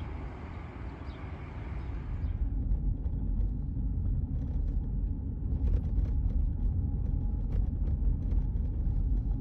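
Outdoor road ambience: a passing vehicle's hiss fades out about two seconds in, over a steady low rumble.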